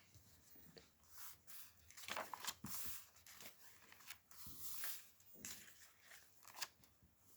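Paper pages and tags of a handmade junk journal being handled and turned: a string of soft rustles and brushes.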